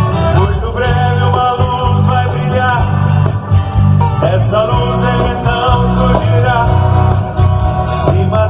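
Live band music: a Catholic pop-country song played with bass, guitar and drums, a melody line bending over the top.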